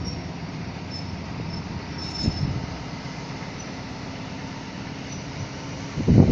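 Train running on the rails with a steady low rumble and faint high-pitched wheel squeal. There is a short bump about two seconds in and a loud low rush of noise near the end.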